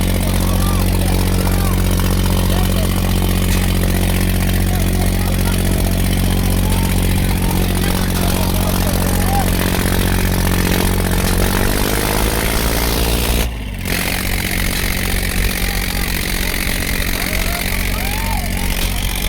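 Tractor diesel engine running at a steady speed, then revving up about twelve seconds in. After a sudden short break it carries on at a lower, rougher pitch.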